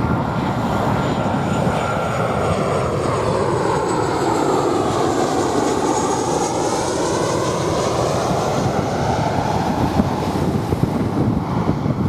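Jet airliner passing low overhead, its engine rush swelling steadily. A whooshing tone sweeps down and back up again as the plane goes over, about halfway through.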